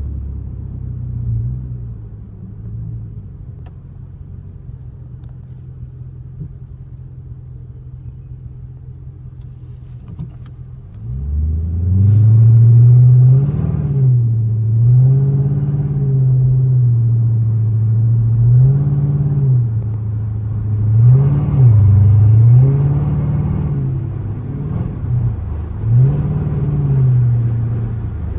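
Straight-piped Chrysler 300C HEMI V8 exhaust, running at a steady low note, then about eleven seconds in it gets suddenly much louder and revs up and down repeatedly, the pitch climbing and dropping every second or two.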